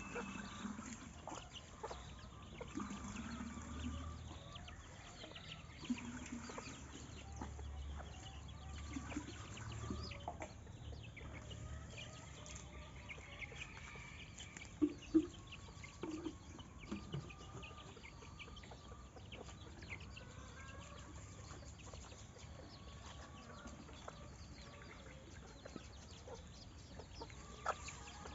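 Chickens clucking faintly, with scattered short calls and a couple of louder brief clucks about halfway through.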